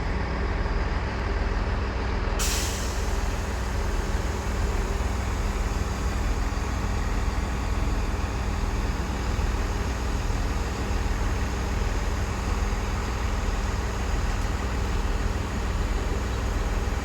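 Chiltern class 165 diesel multiple unit standing at the platform with its diesel engines idling in a steady low rumble. About two seconds in, a steady hiss of air starts and carries on.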